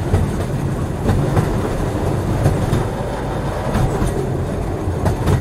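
Railway cars rolling along the track with a steady low rumble. The wheels clack over the rail joints in pairs of clicks about every second and a quarter.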